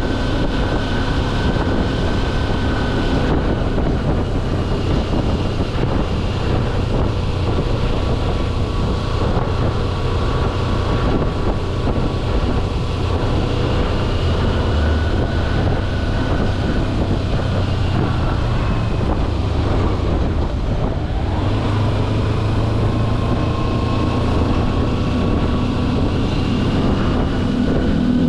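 Kawasaki Versys-X 250's parallel-twin engine running at a steady riding pace, its note drifting slightly up and down, with wind noise on the microphone.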